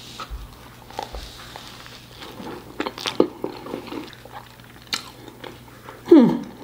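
A person biting into and chewing a crack chicken slider: small, irregular wet mouth clicks and chewing noises. Near the end comes a short vocal sound that falls in pitch.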